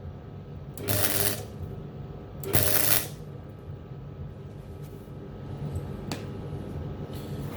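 MIG welder arc crackling in two short bursts, about a second in and again near three seconds, as a plug weld is filled with short pulls of the trigger. A steady low hum runs underneath, and there is a single sharp click about six seconds in.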